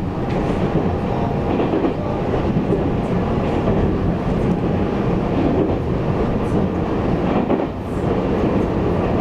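Taiwan Railways EMU800 electric multiple unit running at speed, heard from inside the passenger car: a steady rumble of wheels on rail with some clickety-clack, dipping briefly near the end.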